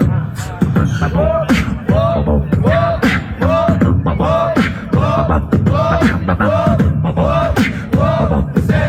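Live beatboxing with a steady beat of bass kicks and snare-like clicks, over a hummed note that bends up and back down about twice a second.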